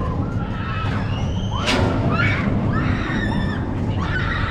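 Crowd noise: many overlapping voices, with high-pitched calls and shouts, over a steady low rumble. One sharper shout stands out just under two seconds in.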